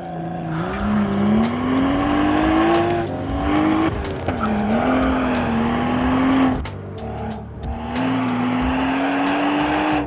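BMW 135i engine pulling hard on an autocross course, its note climbing and dropping back briefly about three and four seconds in, then easing off into a short lull before pulling again near the end.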